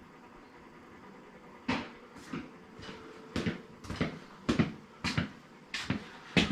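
Tools and parts being moved about while searching: a string of about a dozen sharp knocks and clatters, irregularly spaced, starting a couple of seconds in.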